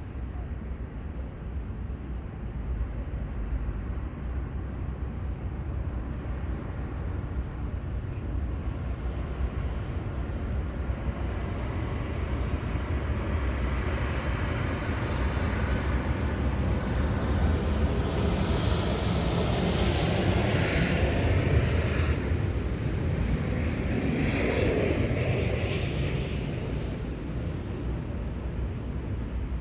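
A passenger plane flying past low, over a steady low rumble: its noise builds from about twelve seconds in, peaks about halfway through with a falling whine as it goes by, then fades away.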